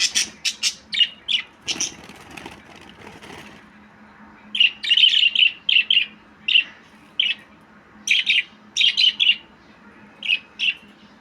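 Budgerigar chirping: short, sharp chirps in quick runs, with a gap of a couple of seconds about two seconds in.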